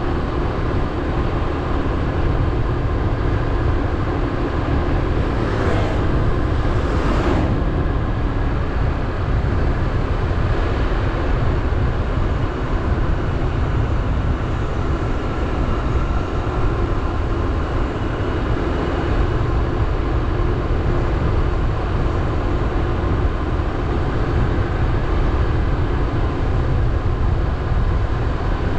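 Motorbike riding along a road: the engine running steadily under a heavy rumble of wind on the microphone, with two brief rushing swells about six and seven seconds in.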